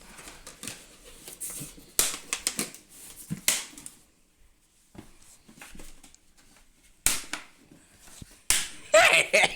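Handling noises from a plastic chlorine bottle: a few sharp clicks and short rustles, with a quiet stretch in the middle and a busier cluster near the end.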